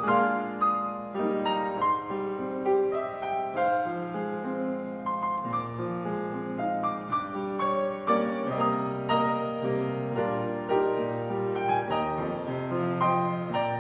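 Solo piano playing, a melody over chords with new notes struck several times a second.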